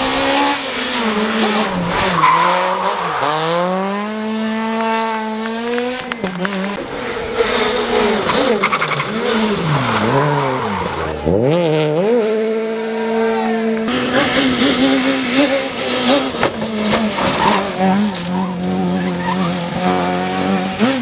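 Rally car engines revving hard, pitch climbing and dropping again and again through gear changes and lifts, with tyres squealing and skidding. The sound changes abruptly about six seconds in and again about fourteen seconds in, as a different car takes over.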